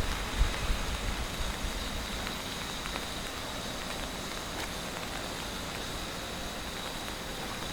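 Steady rain hiss with scattered faint raindrop ticks, with a few low thuds in the first second.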